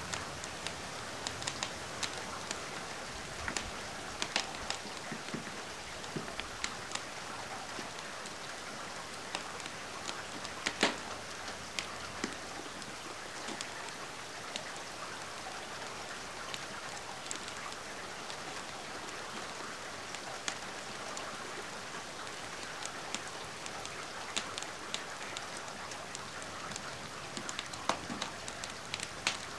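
Steady rain hiss with scattered sharp pops and crackles from a wood fire burning in a fireplace.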